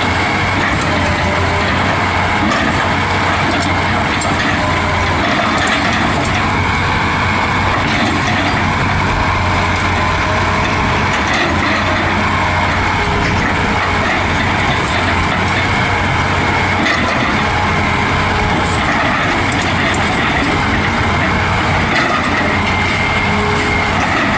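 Excavator working, its diesel engine running steadily with continuous loud mechanical clatter and noise.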